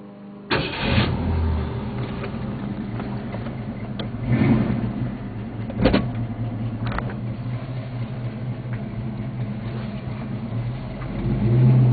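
Ford 289 small-block V8 engine of a 1966 Mustang running steadily, swelling briefly about four seconds in and again near the end, with a few sharp clicks along the way.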